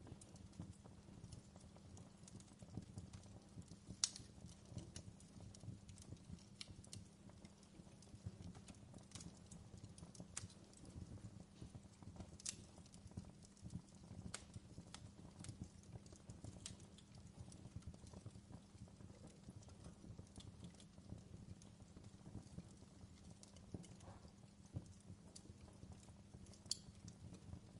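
Fireplace crackling: a faint low rumble of the fire with irregular small snaps and pops, a louder pop about four seconds in and another near the end.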